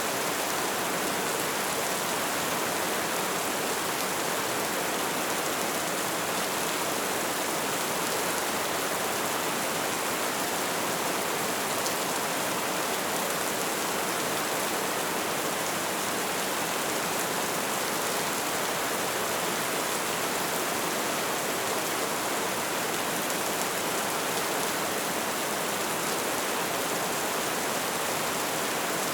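Light rain falling in a steady, even hiss, with no change in strength.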